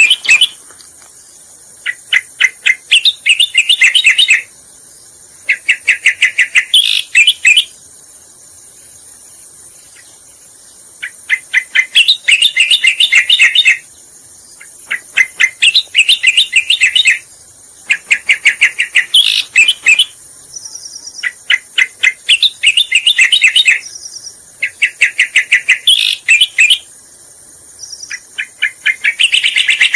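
Cica koreng (cucak koreng) song: phrases of rapid chattering notes, each lasting a second or two, repeated about every three to four seconds, as in a looped lure recording. A steady high insect-like hum runs underneath.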